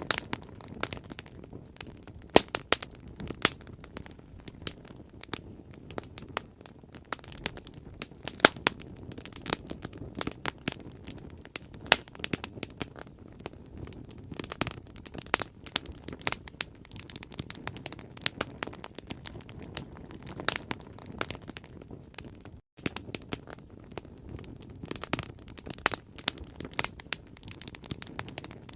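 Bonfire crackling, with irregular sharp pops and snaps of burning wood over a steady low rush of flame. A split-second gap in the sound comes about two-thirds of the way through.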